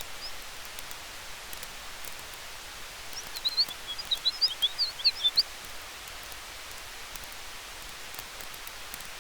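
Campfire crackling with faint scattered pops over the steady rush of wind in the trees. From about three seconds in, for some two seconds, a quick burst of high bird chirps rises above it.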